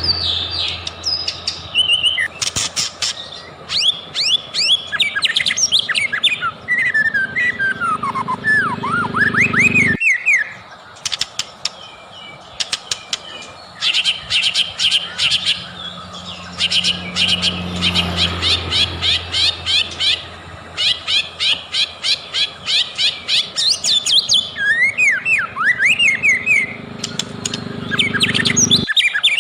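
White-rumped shama (murai batu) singing: fast runs of repeated sharp notes alternating with clear whistled phrases that slide up and down, over a low steady hum.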